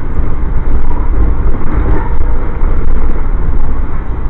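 Steady, loud rumble and rush of an Amtrak passenger train running at speed, heard from on board.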